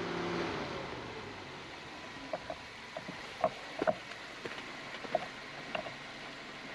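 Suzuki Jimny crawling slowly over rocks: a steady hiss broken by scattered small knocks and creaks from the tyres and suspension working over the rock, with a low engine hum that fades in the first half second.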